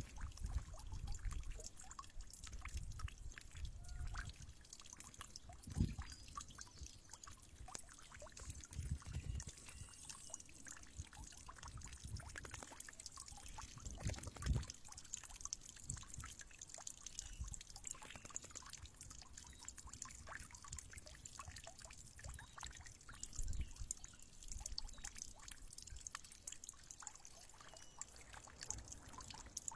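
Water trickling and dripping, with many small ticks and splashes and occasional low thumps.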